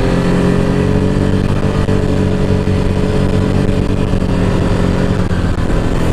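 ATV engine running steadily under way on a gravel back road, its note easing off a little about five seconds in.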